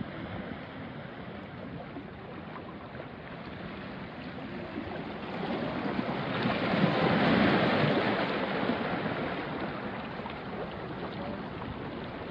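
Small sea waves washing onto a rocky shore, one wave swelling to a peak about seven seconds in and then draining back.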